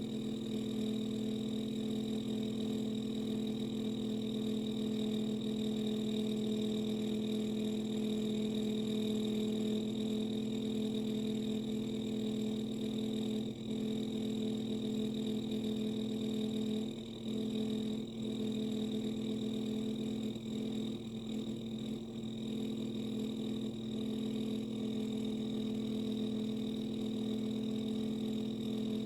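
Samsung dishwasher running with a steady humming drone of several pitches held together, faltering briefly twice a little past halfway. It is one of the 'horrible' sounds of a machine its owner calls a lemon.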